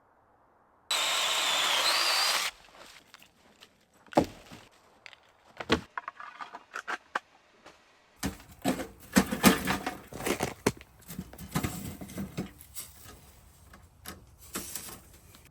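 Water poured into a metal pot or kettle for about a second and a half, then scattered clanks and knocks of cookware being handled.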